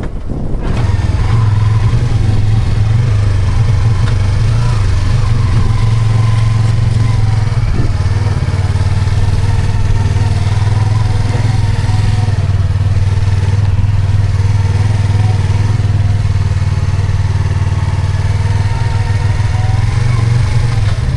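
A motorcycle engine running at a steady speed, a strong low drone that comes up about a second in and holds level.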